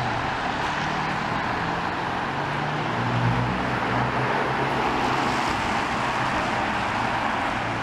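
Steady road traffic: a continuous wash of passing cars' tyre and engine noise with a low engine hum that swells and fades.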